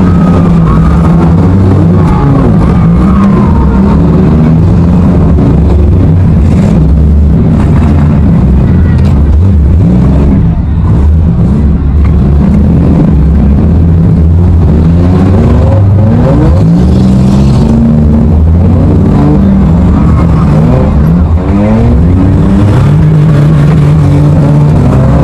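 Demolition derby car engines running and revving, rising and falling in pitch again and again, loud and distorted on a microphone inside a car, with a few knocks of impact.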